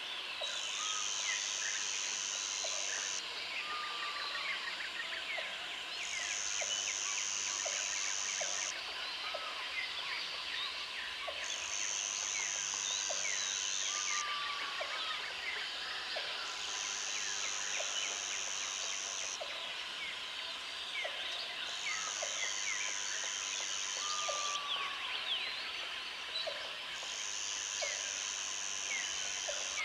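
Jungle ambience: a dense chorus of birds and insects chirping, with a high insect buzz that sounds for a few seconds and then stops, about every five seconds, and short low calls repeating underneath.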